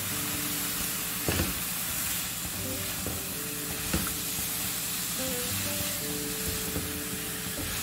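Sliced Chinese potatoes (koorka) frying in oil and masala in a pan, a steady sizzle as a spatula stirs them, with two sharp knocks of the spatula on the pan about a second and a half and four seconds in. Background music with held notes plays along.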